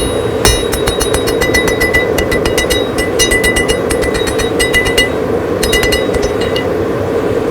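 Rapid, evenly spaced hammer blows on steel, each ringing, over a steady background roar. The run of blows stops about five seconds in, with a few more strikes just after six seconds.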